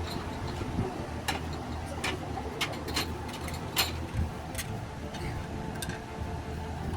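Irregular sharp clicks and light knocks, about a dozen, the loudest about four seconds in, over a steady low hum.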